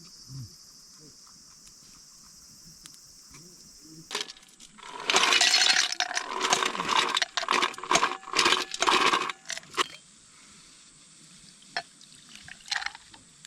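Liquid splashing and bubbling in a cooking pot, loud for about six seconds from a third of the way in, with clinks of metal. A steady faint high hiss runs before it.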